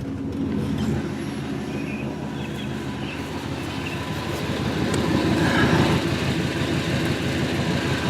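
Vehicle engine running with an even, pulsing throb that gets louder about five seconds in.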